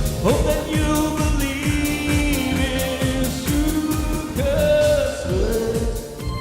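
A band playing a pop song with a singer, over a steady drum beat.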